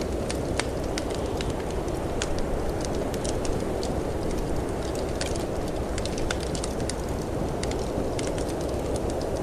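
Wood fire in a fireplace crackling, with frequent irregular sharp pops, over a steady rushing of storm wind.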